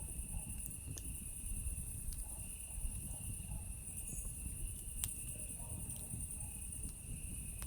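Campfire crackling with a few sharp pops, the clearest about five seconds in, over a low rumble. Behind it runs a steady chorus of night insects, cicadas, at two high pitches.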